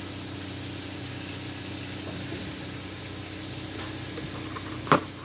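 Sliced steak, onions and peppers sizzling in a skillet over a steady low hum, with one sharp knock near the end.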